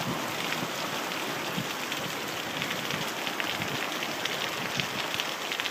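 Heavy rain pouring down steadily, a dense hiss with countless drops pattering on surfaces.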